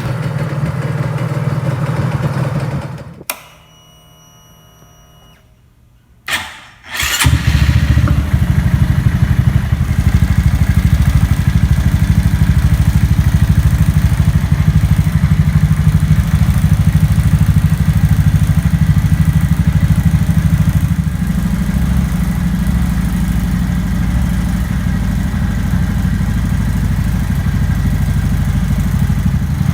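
Honda Grom single-cylinder four-stroke engine, bored up to 181cc with a Takegawa kit, starting and then idling steadily through a Moriwaki muffler, with a strong low exhaust note. A loud sound cuts off about three seconds in, and the engine catches after a few quiet seconds, about seven seconds in.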